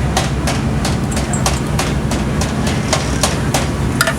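A steady low engine rumble with sharp clicks or taps about three times a second over it.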